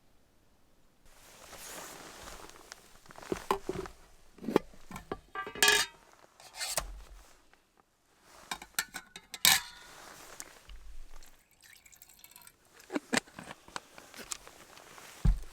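Metal camp cookware being handled: irregular clinks and knocks, two of them ringing briefly.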